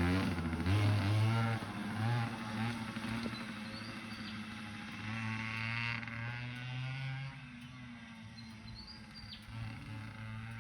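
Dirt bike engine revving up through several rising pulls as it gathers speed, gradually fading.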